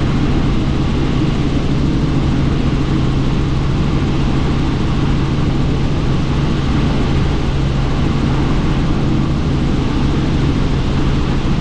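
Helicopter in flight, heard from inside the cabin: a loud, steady drone of rotor and engine with a constant low hum, mixed with wind noise through the open doors.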